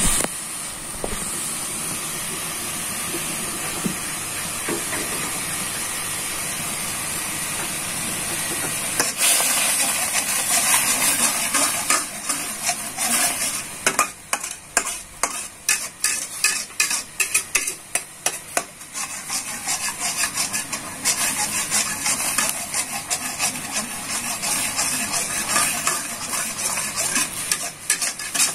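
Blended spice paste sizzling in a wok with a steady hiss. From about nine seconds in, a spatula stirs and scrapes it against the pan in quick repeated strokes.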